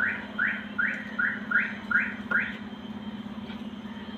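A bird calling in a quick, even series of short rising chirps, about two to three a second, which stop about two and a half seconds in. A steady low hum runs underneath.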